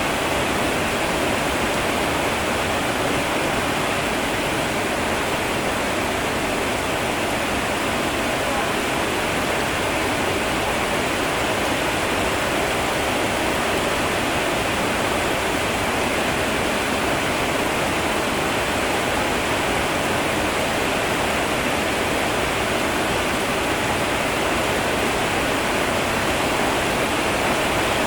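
Heavy rain falling in an even, unbroken hiss, with no separate drops or thunder standing out.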